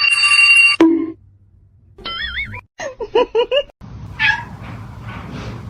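A cat meowing: a wavering call, then a quick run of short rising meows, then one more meow. A brief steady high-pitched tone sounds at the very start.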